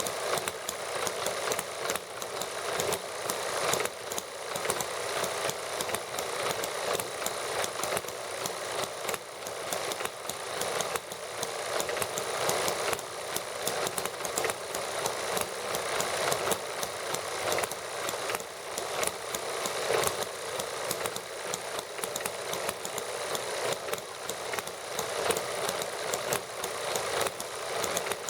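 Small model gasoline engines running steadily together, a fast, even stream of firing pops.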